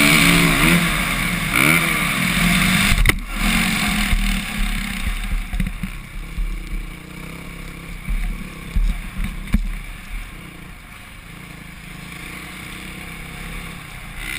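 Single-cylinder four-stroke Suzuki RM-Z450 motocross bike engine revving up and down for the first three seconds, then dropping to a much quieter low steady running as the bike slows, with wind rumble on the helmet-camera microphone and a few scattered knocks.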